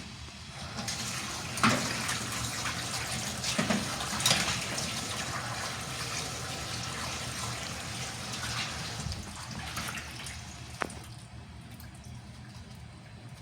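Water running and splashing steadily, with a few sharp knocks, easing off about eleven seconds in.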